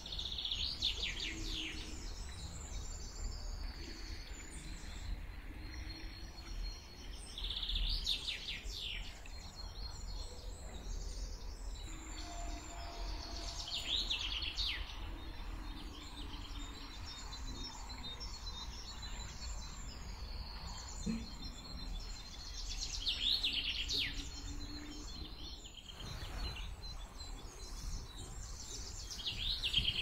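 Songbirds singing: one bird repeats a short falling song phrase about every six to nine seconds, with softer chirps from other birds between, over a steady low rumble.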